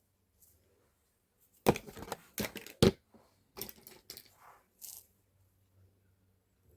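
A quick run of sharp clicks and knocks with some rustling, the loudest about two and three seconds in.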